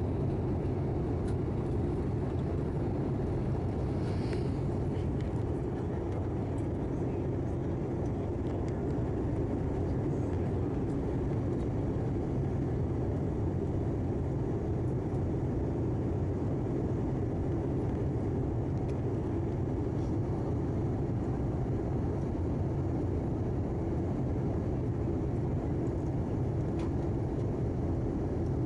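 Steady in-flight cabin noise of an Airbus A319-111 airliner: an even, deep rush of airflow and CFM56 turbofan engine noise heard from inside the passenger cabin.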